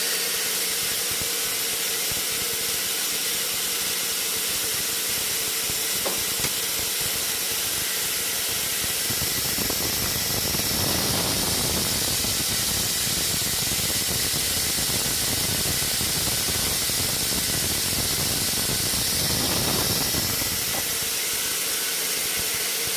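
Sawmill machinery running with a steady high hiss over a faint hum, growing fuller and a little louder from about ten seconds in until near the end.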